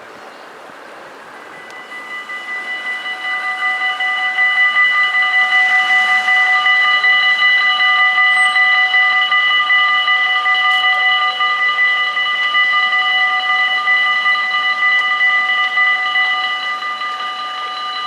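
Electronic warning bells of a Dutch automatic half-barrier level crossing starting up about two seconds in, swelling over a couple of seconds, then ringing steadily with a fast flutter. The bells signal that a train is approaching and the barriers are lowering or closed.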